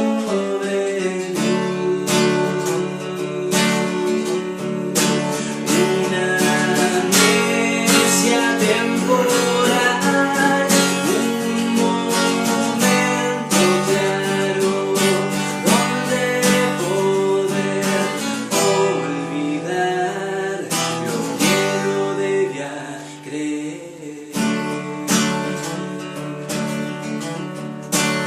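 Acoustic guitar strummed in an instrumental passage of a song, its chords ringing on between strokes, with a brief softer spell about two-thirds of the way through.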